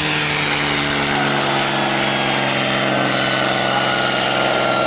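P-51 Mustang's piston aero engine and propeller running steadily, the whole sound sliding slowly lower in pitch as the aircraft passes.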